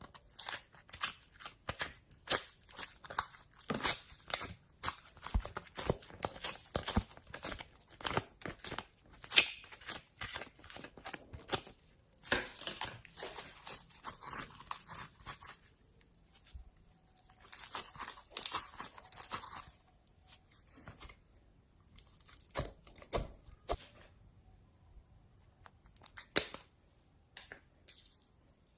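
Slime squeezed and stretched by hand: dense runs of sticky crackling pops and clicks, broken by a few short pauses.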